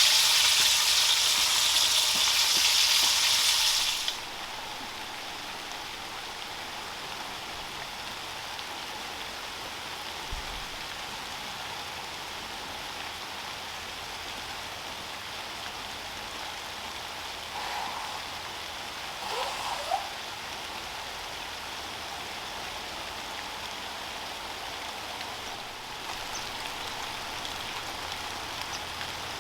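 Bacon sizzling loudly in a Wagner cast-iron skillet, cut off suddenly about four seconds in. After that, steady rain falls.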